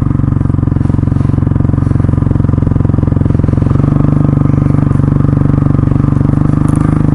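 Honda CRF dirt bike's single-cylinder four-stroke engine running steadily under way, its note stepping up slightly about halfway through.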